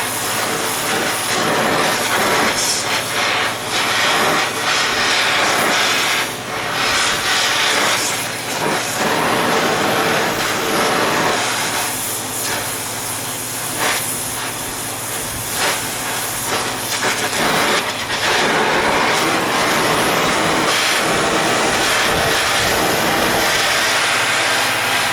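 Gas torch flame hissing steadily while it heats the spine of a hardened steel blade to draw a temper.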